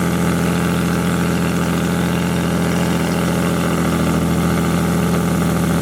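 Nissan 350Z's V6 engine idling steadily.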